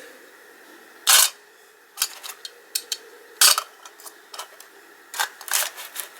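Tinplate toy cars being handled and set down, clicking and clacking against each other and the surface: a string of sharp knocks, the loudest about a second in and about three and a half seconds in.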